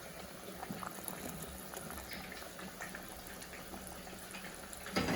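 Pan of butternut and peas simmering in chicken stock, bubbling and crackling faintly and steadily, with a single knock against the pan near the end.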